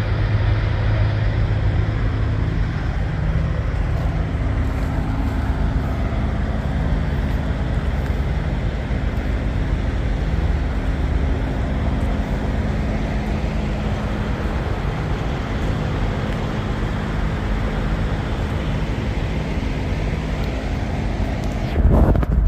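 A large diesel engine idling steadily, with wind buffeting the microphone. There is a brief loud bump near the end.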